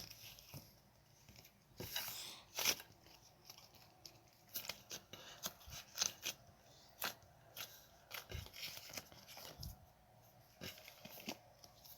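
Irregular short crisp clicks, snips and rustles of material being handled by hand, roughly one or two a second.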